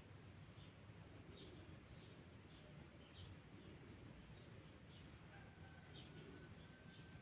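Faint short falling chirps of small birds, several a second, over a low steady rumble. A thin steady tone runs through the last two seconds.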